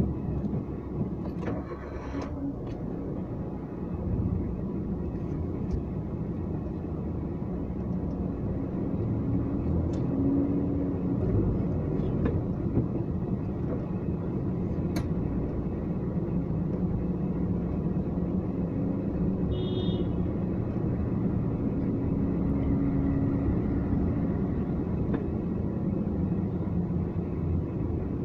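Car being driven: a steady low engine and road rumble, with a few faint clicks and a brief high-pitched tone about twenty seconds in.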